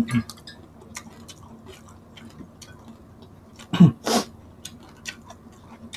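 Mouth sounds of eating crispy deep-fried pork: soft, irregular smacks and clicks of chewing. About four seconds in there is a short, louder vocal noise from the throat.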